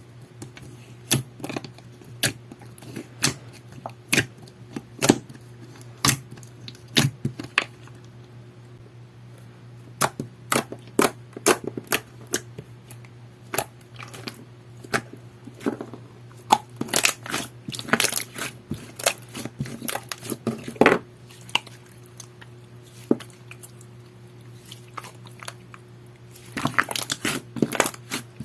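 Clear slime squeezed and poked by hand, giving sharp clicks and pops, at first about one a second, then in quick clusters, turning to dense crackling near the end. A low steady hum runs underneath.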